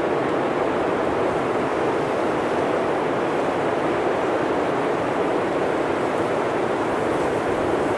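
Blizzard wind blowing steadily through a forest, a dense, even rush of noise without gusts or breaks.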